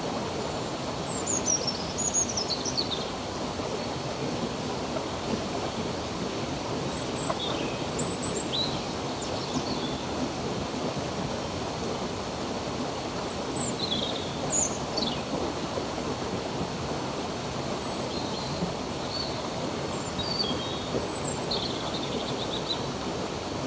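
Steady rushing of a flowing stream, with birds chirping over it in short, quick, falling notes, the busiest bursts a second or two in and about fourteen seconds in.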